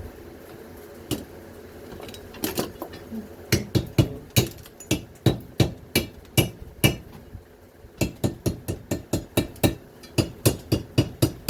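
Hammer blows on a front-load washing machine motor's stator, cutting the copper windings loose. A few single strikes come first, then two runs of quick, sharp metal strikes at about two to three a second, with a short pause between them.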